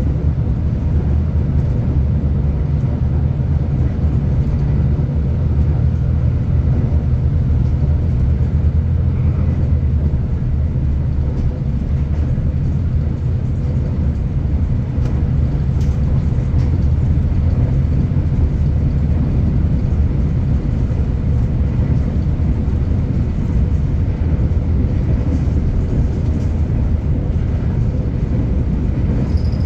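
V/Line passenger train running at speed, heard from inside the carriage: a loud, steady low rumble with a faint constant hum above it.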